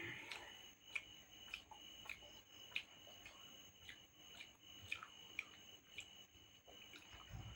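Faint eating sounds: irregular soft clicks and smacks of chewing, about one or two a second, over a steady high-pitched tone.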